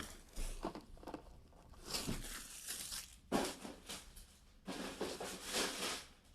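Packaging from trading-card hobby boxes being torn and crumpled by hand as the boxes are ripped open: several irregular bursts of tearing and crinkling.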